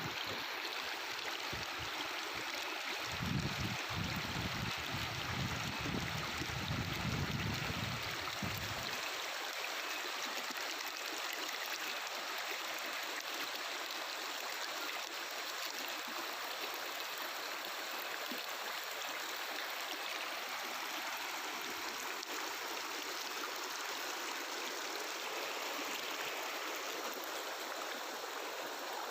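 Mountain river water flowing and babbling over rocks, a steady rushing. A low rumble lies underneath for about six seconds near the start.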